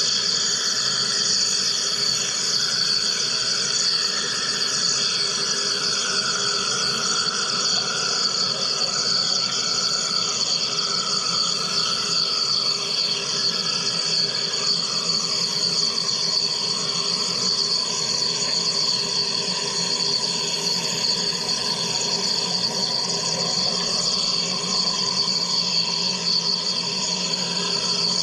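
Wire EDM machine running: a steady dense hiss with high, even whining tones, and a fainter tone sliding slowly lower through the first half.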